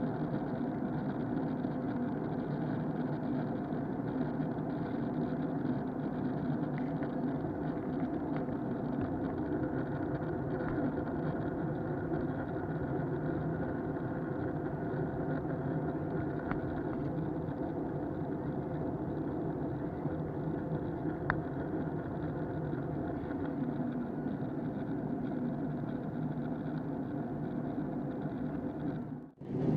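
Steady cabin drone of an Airbus A321 in flight, engine and airflow noise heard from inside the cabin through an action camera's case. It cuts off abruptly near the end.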